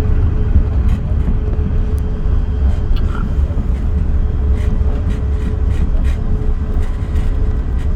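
Airbus A380 cabin noise on the ground after landing: a steady low rumble with a constant hum, and light rattles and clicks from the cabin.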